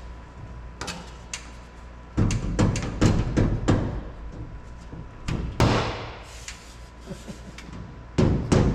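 Dead-blow hammer knocking a truck-cab body panel into place. It starts with a few light clicks, then a run of dull knocks, one harder hit with a rattling tail about halfway through, and quicker knocks again near the end.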